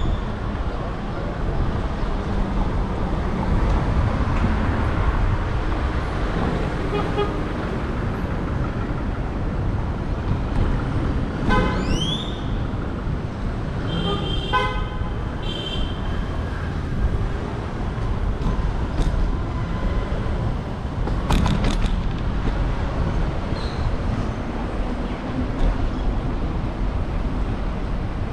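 City street traffic heard from a moving bicycle: a steady rumble of cars with wind on the microphone. Car horns sound about twelve seconds in, followed by a quick series of short honks a couple of seconds later.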